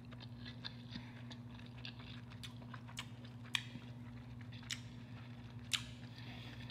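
Close-miked chewing of a bite of king crab meat: soft wet mouth smacks and clicks, with a few sharper smacks about three and a half, four and a half and nearly six seconds in, over a steady low hum.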